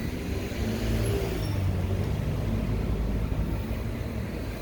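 Steady low rumble of wind and road noise while riding an electric motorcycle through traffic, with no engine sound to speak of; a faint short rising whine comes about a second in.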